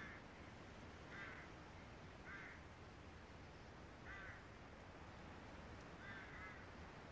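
Near silence with a low hiss, broken by four or five faint, short bird calls a second or two apart.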